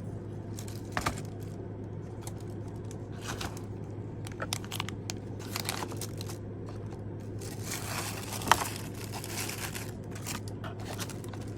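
Packaging being handled: crinkling and rustling with scattered light clicks and taps, and one sharper click about two-thirds of the way through.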